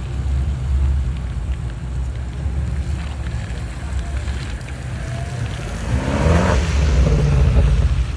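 Car engines rumbling, with one car revving and accelerating hard about six seconds in, its engine pitch rising as it pulls away.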